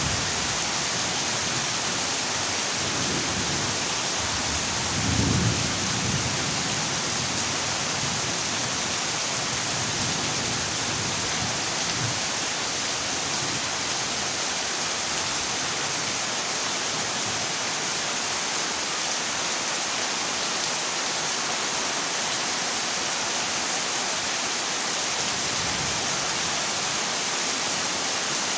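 Heavy rain falling steadily on a corrugated zinc roof, a constant hiss, with low rolls of thunder now and then, the strongest about five seconds in.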